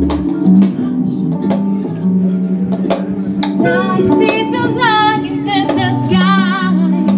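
Live song with guitar accompaniment strummed in a steady rhythm; about halfway through, a female voice comes in singing a held, wavering wordless phrase.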